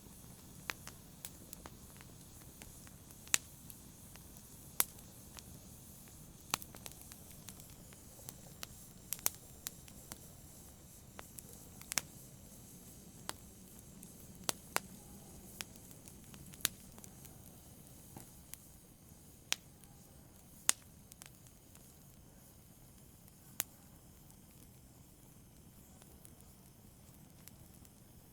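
Wood fire burning in a fireplace, crackling with irregular sharp pops about every second or two over a low steady hiss; the pops thin out in the last several seconds.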